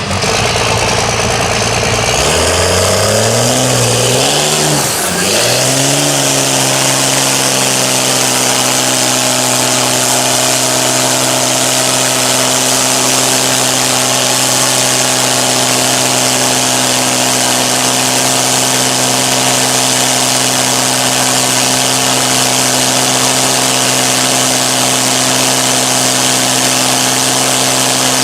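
A truck engine revving up and down several times over the first few seconds, then holding one steady note.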